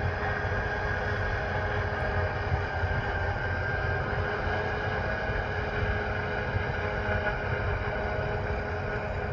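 Heavy diesel harvest machinery running steadily at working load: a low engine drone with several steady mechanical whines over it.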